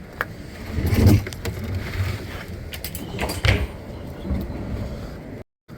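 Strong gusty wind buffeting the microphone, a low rumbling that surges in gusts about a second in and again around three and a half seconds, with scattered clicks and rattles. The sound cuts out briefly just before the end.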